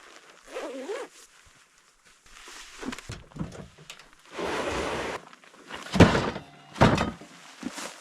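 Rustling and scuffing with scattered knocks, then two heavy thumps a little under a second apart near the end, the loudest sounds here.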